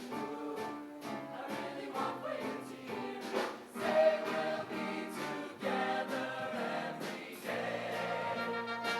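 High school show choir singing in harmony with instrumental accompaniment that has a steady beat.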